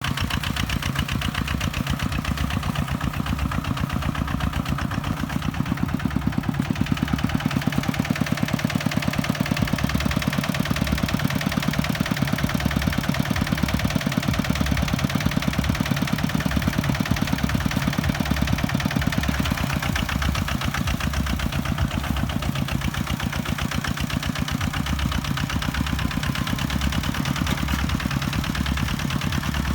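Kubota tractor's diesel engine running steadily with an even, fast beat, a little louder from about seven seconds in until about twenty.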